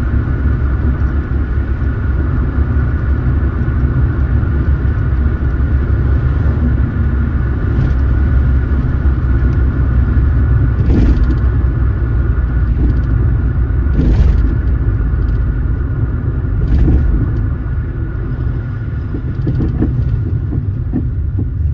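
Car driving, a steady low rumble of engine and road noise with a thin steady tone above it. A brief swish comes about every three seconds through the middle.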